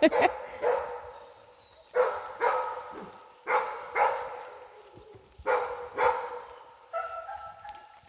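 A dog barking repeatedly, the barks mostly coming in pairs about half a second apart every second and a half or so, with a longer, steadier whine-like call near the end.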